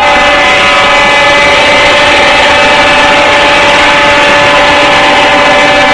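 Truck air horn blowing loudly and steadily, several tones sounding together throughout.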